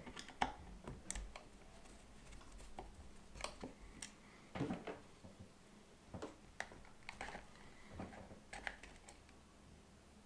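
Faint, irregular clicks and light knocks of a plastic large-scale model locomotive chassis being handled and turned over on a workbench.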